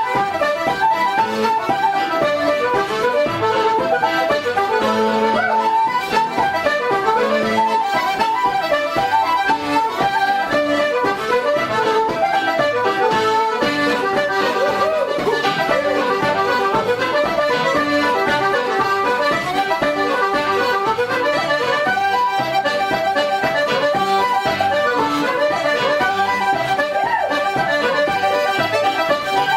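Irish traditional instrumental music led by an accordion, playing quick runs of notes.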